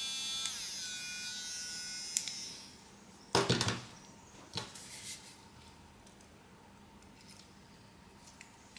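A small electric motor whining at a high, steady pitch, then stopping about two and a half seconds in. A short clatter of small hard parts or a tool being set down follows, then a few light clicks.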